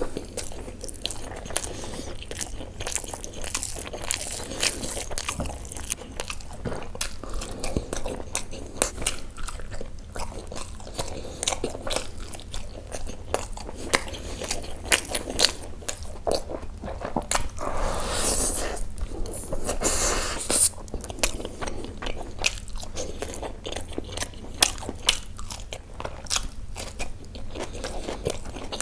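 Eating sounds of a person chewing mouthfuls of mutton keema kaleji curry and basmati rice taken by hand: wet chewing, lip smacks and crunchy bites in quick, irregular succession, louder for a few seconds about two-thirds of the way in.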